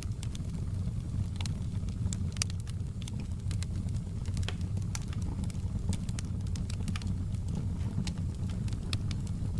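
Wood fire crackling: a steady low rumble of burning, with frequent irregular sharp pops and crackles.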